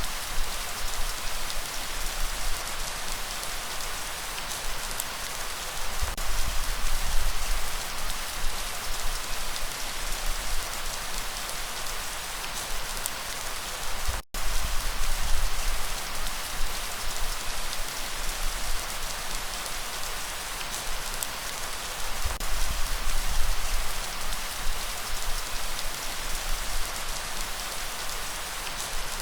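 Steady light rain, an even hiss of falling drops over a low rumble of breeze. The sound cuts out completely for an instant about halfway through.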